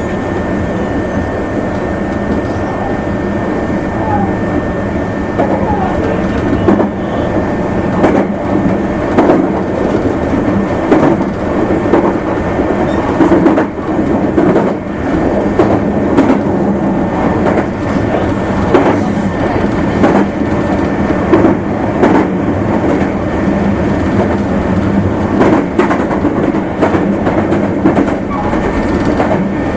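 Running sound inside a Meitetsu Nagoya Main Line limited express train: a steady rumble of wheels on rail, broken by repeated sharp clacks over rail joints, with a thin steady high whine throughout.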